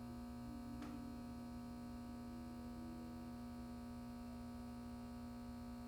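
Faint, steady electrical hum with a few fixed tones, and one faint click about a second in.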